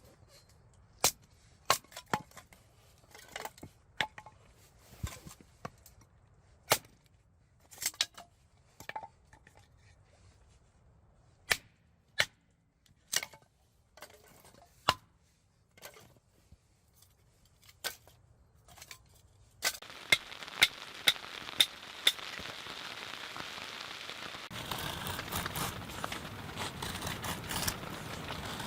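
Wood crackling and popping in a small wood stove: irregular sharp pops, about one a second. About two-thirds of the way through a steady hiss comes in under them and grows louder near the end.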